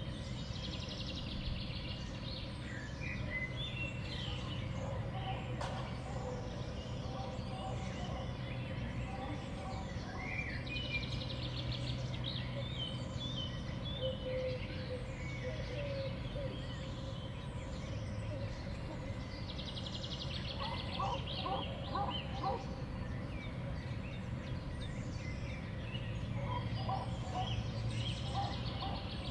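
Small songbirds at a winter feeder chirping and twittering, with several fast trills, over a steady low background hum.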